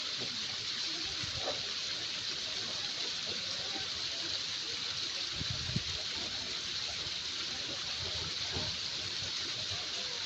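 Waterfall rushing steadily, an even hiss of falling water, with one brief faint knock a little past halfway.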